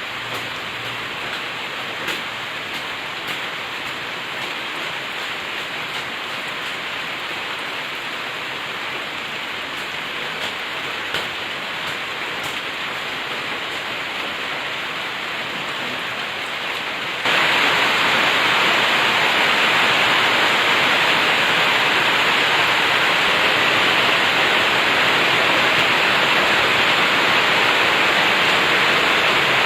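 Steady rain falling, with a few faint drip ticks; about two-thirds of the way through it abruptly becomes louder and brighter and stays that way.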